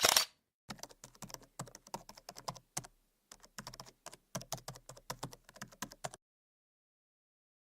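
Rapid keyboard typing: a quick run of keystroke clicks for about five seconds with a short pause in the middle, after a single sharp click at the start.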